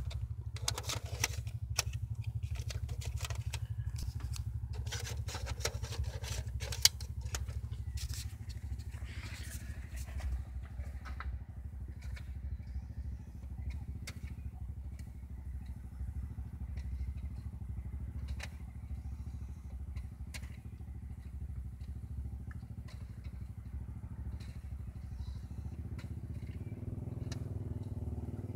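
Car engine idling with a steady low rumble. For the first ten seconds or so there are clicks, knocks and scraping from hands handling equipment, thinning to a few faint clicks afterwards.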